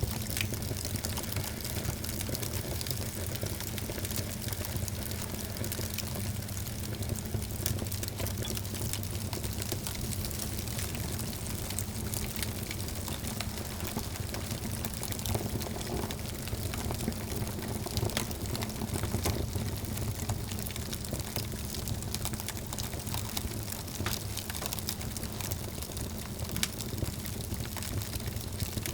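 Wood fire crackling in a fireplace: a dense, steady run of small pops and snaps over a low rumble of burning.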